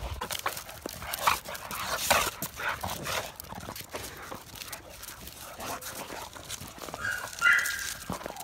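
American Bully dogs play-fighting: a run of scuffling, scrabbling noises, with a short high-pitched dog whine near the end.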